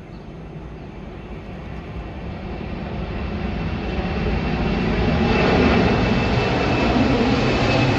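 Jet engines of a Boeing 747 at takeoff power, a rushing noise that grows steadily louder over about five seconds and then holds, with a thin high whine coming in about halfway through.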